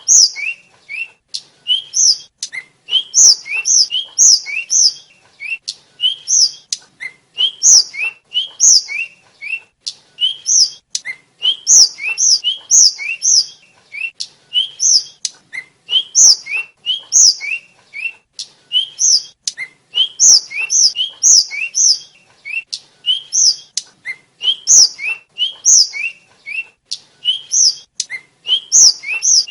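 Tledekan (sikatan flycatcher) singing: quick phrases of short, high whistled notes that swoop up and down, repeated about once a second without a break.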